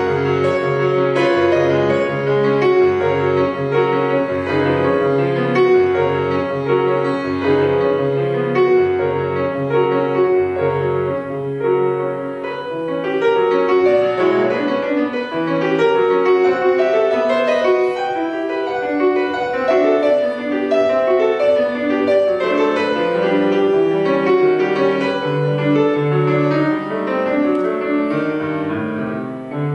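Solo piano playing a classical piece: repeated low chords under a melody, then more flowing runs of notes from about twelve seconds in.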